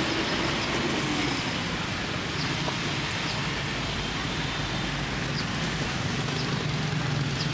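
Steady road traffic noise from a street, with a low hum throughout and a few faint short high chirps.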